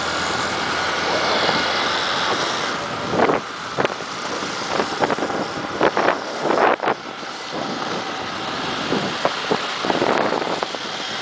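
Motorcycle running on the move with wind buffeting the microphone, steady throughout, with a handful of short sharp bursts of noise in the middle.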